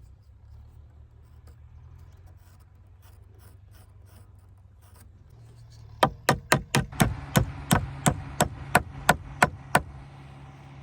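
A hammer striking about a dozen quick, even blows, roughly three a second, starting about six seconds in. A low steady hum runs underneath, with faint light taps before the blows.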